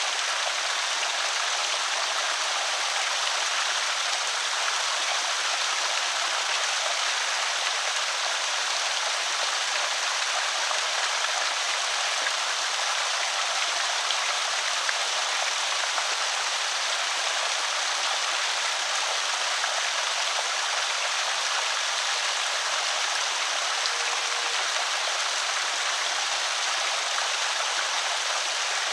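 Water of a small creek spillway pouring and splashing in a steady, unbroken rush.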